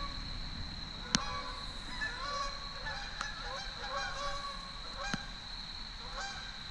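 A flock of geese honking, many calls overlapping. A steady high-pitched tone runs underneath, and there are three sharp clicks, the loudest about a second in.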